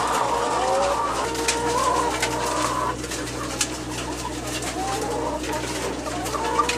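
A flock of chickens calling together, many overlapping wavering calls with scattered sharp clicks, over a steady low hum.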